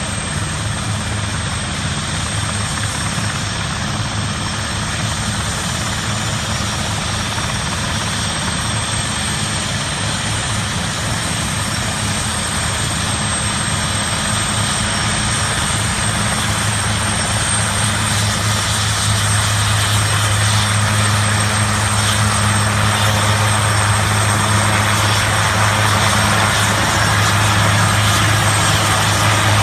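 Helicopters running for takeoff: a steady low rotor drone with engine noise over it, growing gradually louder and strongest over the second half.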